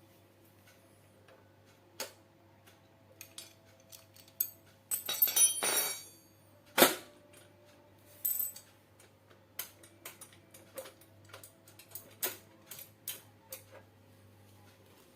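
Scattered clinks and knocks of small metal parts and tools being handled during assembly work. There is a brief scraping rattle about five seconds in, and a sharper knock just before seven seconds.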